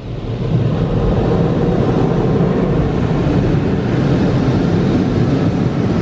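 Automatic car wash spraying water over the car, heard from inside the cabin as a steady rushing wash that swells up in the first half-second and then holds loud.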